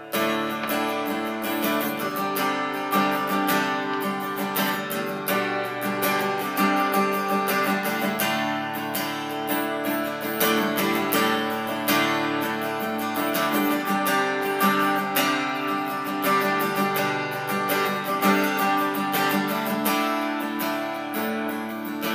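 Acoustic guitar strummed steadily in the instrumental introduction to a song, with no singing yet.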